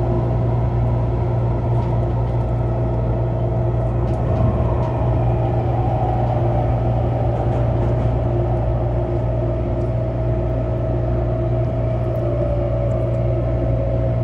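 Interior running noise of an MTR Airport Express train built by Adtranz-CAF: a steady low rumble with a whine over it. Near the end the whine slowly drops in pitch as the train slows into the station.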